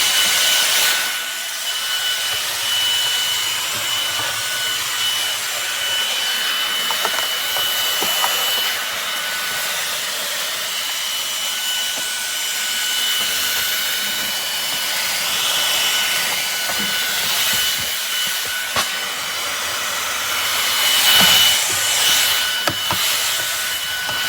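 MONSGA cordless stick vacuum's brushless motor running: a steady high whine over a rushing hiss of air, with brush and rubbing noise that swells louder about a second in and again near the end.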